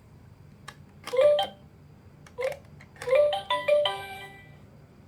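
LeapFrog Fridge Phonics toy's electronic jingle: a click, then a short tune of bright beeping notes, a few single notes followed by a quick run of several near the end.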